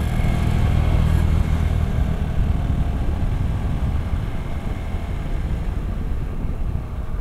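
Hero Xpulse 200 4V's single-cylinder engine running under throttle while the motorcycle overtakes a tractor, strongest in the first second or so, then settling to a steady cruise.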